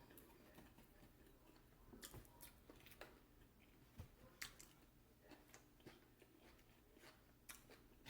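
Faint eating sounds from fried chicken being chewed and bitten, heard as scattered soft clicks and small crunches over near silence.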